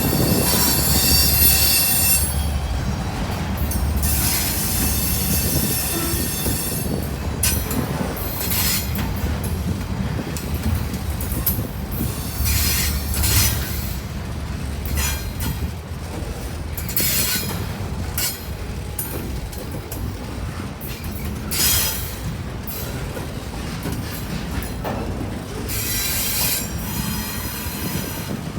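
Intermodal freight train rolling past with a steady low rumble of cars on the rails, and steel wheel flanges squealing in repeated high-pitched bursts, the loudest right at the start.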